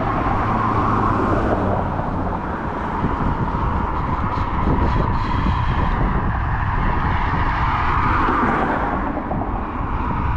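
Wind rushing over a GoPro's microphone and a steady rumble from an Apollo Go electric scooter riding over rough pavement, with a steady high whine underneath.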